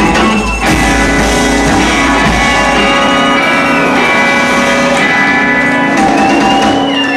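Rockabilly band playing live: electric guitar and drums, with long ringing chords that cut off near the end.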